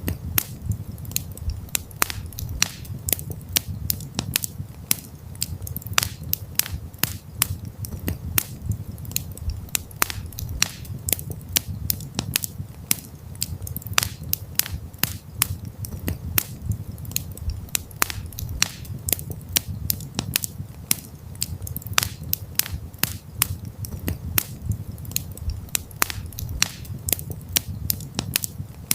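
Wood fire crackling, with frequent sharp pops and snaps over a low steady rumble.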